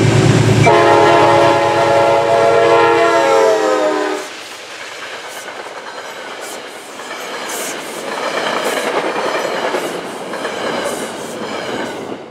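Metro-North diesel passenger train passing close by: the locomotive's engine running loudly, then its horn sounding for about three seconds, dropping in pitch at its end as the locomotive goes past. The coaches then roll by with rhythmic wheel clicks over the rail joints, fading out near the end.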